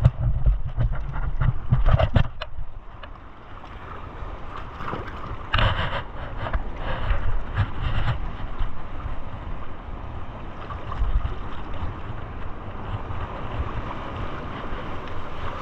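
Sea waves washing and splashing against rocks, with several louder surges, over a steady wind rumble buffeting the microphone.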